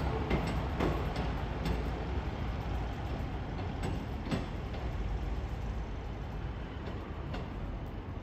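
Diesel multiple unit train moving away: a low rumble with a few scattered clicks, slowly fading as it recedes.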